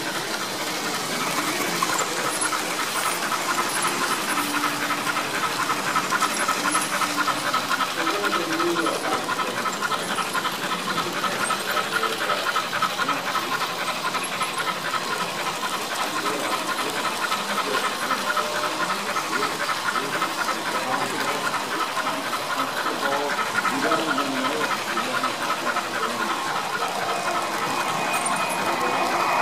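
Sound decoder of a Märklin BR 39 HO-scale model steam locomotive playing a fast, steady, rhythmic steam chuff over a hiss as the locomotive runs.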